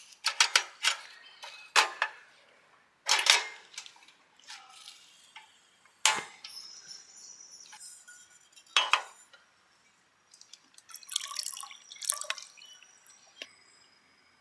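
Kitchenware being handled: irregular clinks and knocks of glass and dishes, several ringing briefly, with a denser cluster of clinks near the end.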